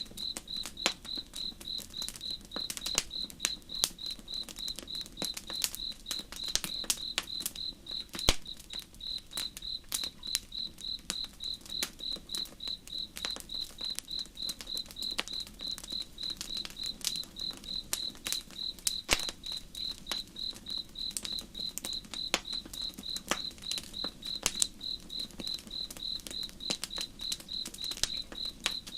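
A cricket chirping in a steady, even pulse, with campfire crackles and pops scattered throughout, over a faint low rush of flowing river water.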